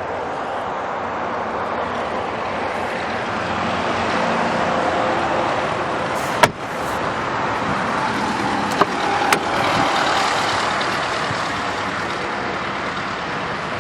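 Steady road-traffic noise that swells slightly midway. A sharp click about six and a half seconds in, then two lighter clicks a couple of seconds later.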